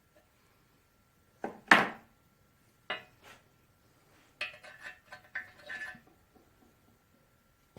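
Metal hand tools clinking on metal: a few sharp metallic strikes, the loudest about two seconds in with a short ring, then a quick run of lighter clinks.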